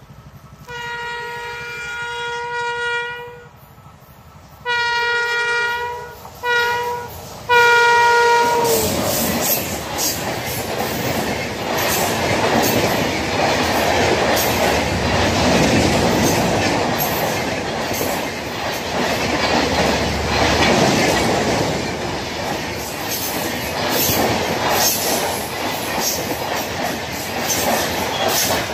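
Express passenger train passing at about 110 km/h. The locomotive's horn sounds four times: a long blast, a second long one, a short one and a last one that drops in pitch as the engine goes by. After that the coaches run past close by with a loud, steady rumble and rapid clatter of wheels on the rails.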